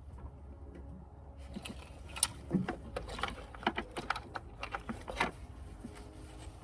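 Irregular clicks and clacks of hand tools and engine-bay parts being handled, as a hose is worked off its fitting on the engine.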